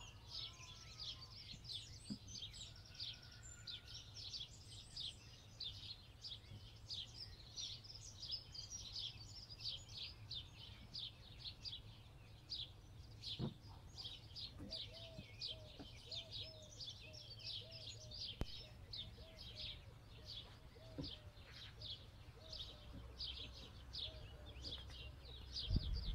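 A songbird chirping in a long, rapid series of short high notes, about two or three a second. For several seconds in the middle, a second, lower call repeats in short notes alongside it.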